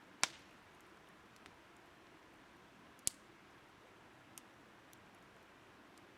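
Burning firewood popping: two sharp, loud cracks about three seconds apart and a few fainter snaps, over a steady low hiss.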